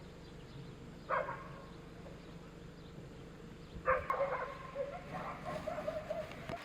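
A dog barks once about a second in, barks again louder near four seconds, then gives a wavering high-pitched call for about two seconds.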